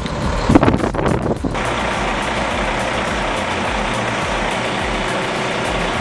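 Heavy machine engine running. It is louder and shifting for the first second and a half, then settles into an even, steady drone.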